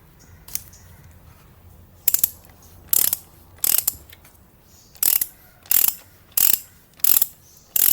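Ratchet wrench clicking in about eight short runs, one with each back-swing, as a 27 mm socket on an extension loosens the oil filter cap of a Ford 1.4 TDCi diesel engine.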